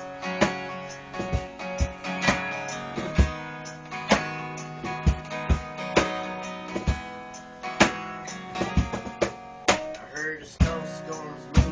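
Instrumental intro of a country-style acoustic song: strummed acoustic guitar with sharp cajon hits keeping a steady beat.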